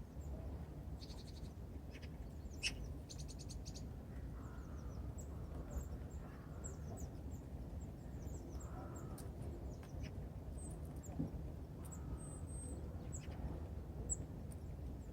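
Small songbirds calling at a winter feeder: scattered short high chirps, two quick rattling trills in the first few seconds and a few softer lower notes, over a steady low rumble.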